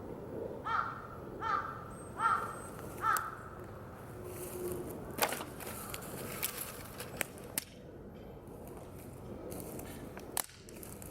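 A crow cawing four times in quick succession, about one caw a second, followed by several sharp, scattered pops and cracks from a wood campfire.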